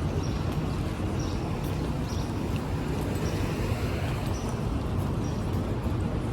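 Wind rumbling on the microphone and traffic noise while riding a bicycle on city streets, with a faint ticking about twice a second.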